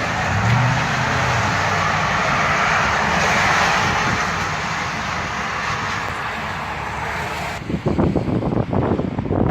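Strong wind rushing steadily, with gusts buffeting the microphone as uneven low rumbling from about eight seconds in.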